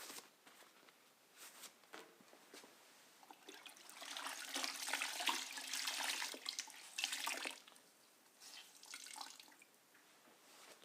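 Water trickling and splashing in two short spells, about four seconds in and again near the end, as a rag is soaked to make a wet rag.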